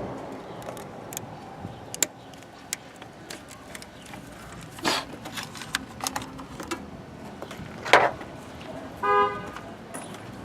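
Scattered clicks and knocks, the loudest about eight seconds in, then a short car horn toot near the end.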